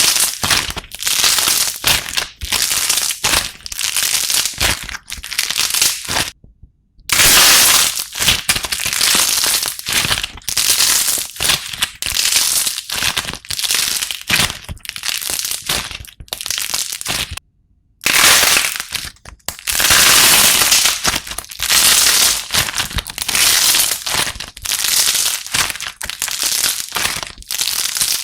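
Slime being squeezed and pressed by hand, giving dense crackling and crunching pops in quick bursts. The sound breaks off into total silence twice, briefly.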